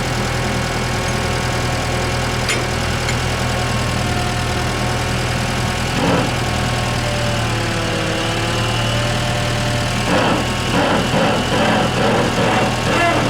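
Gehl 4510 skid steer's Ford four-cylinder gas engine running steadily at idle. Its pitch dips and comes back up about eight seconds in, and from about ten seconds on the sound turns uneven and pulsing.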